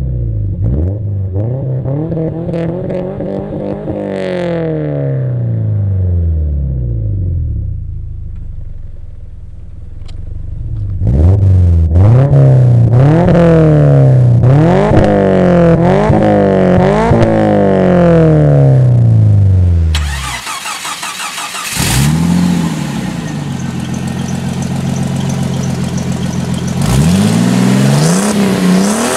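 Car engines with aftermarket exhausts being revved in stationary rev-ups. First comes a rev that rises and falls. Then a string of quick blips follows, about one a second. After a sudden change to another car, an engine idles and rises in revs again near the end.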